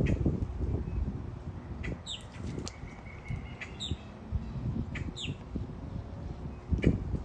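A wild bird giving short, high chirps that fall in pitch, repeated every second or two, over low rumbling thumps loudest near the start and end.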